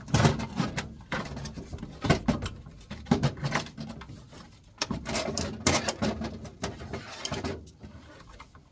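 Irregular clunks, knocks and scrapes of furnace parts being handled and fitted into place as a blower assembly is reinstalled.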